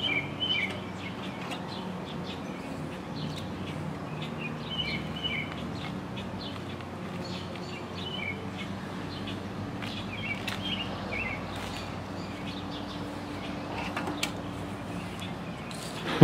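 Birds chirping in short, scattered calls over a steady low hum. A sharp clack comes near the end.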